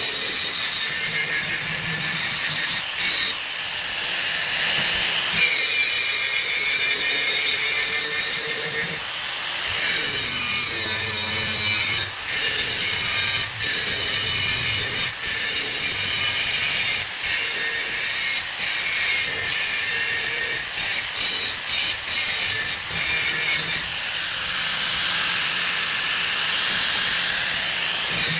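Steady, loud machine noise with a high whine running through it, continuing without a break.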